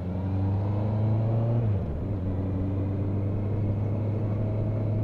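Motorcycle engine running steadily on the road, its note dropping a step about two seconds in.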